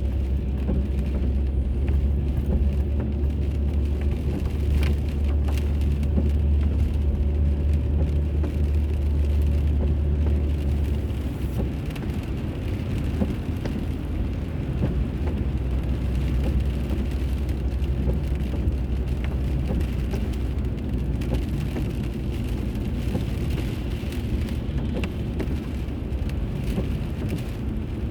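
Car driving, heard through the onboard dashcam: steady road and engine rumble with tyre hiss. A deep hum eases off about eleven seconds in.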